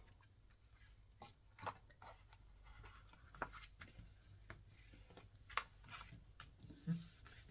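Paper handling: faint rustling and scattered light taps and clicks of cardstock pieces being pressed down and moved on a table, with a soft knock near the end.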